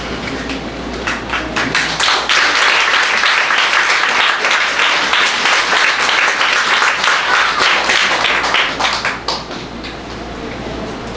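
Audience applauding: scattered claps at first, swelling to full applause about two seconds in and dying away after about nine seconds.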